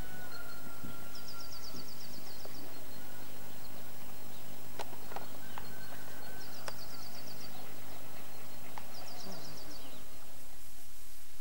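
Outdoor ambience with a steady hiss, and a small bird singing three short, very high, rapid trills, with a few lower whistled notes and some faint clicks.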